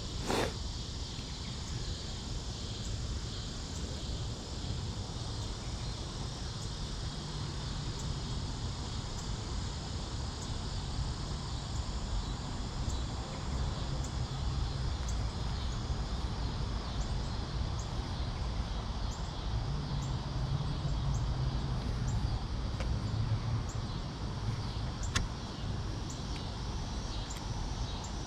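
Steady outdoor background noise: a low rumble with an even high hiss, and a sharp click about half a second in.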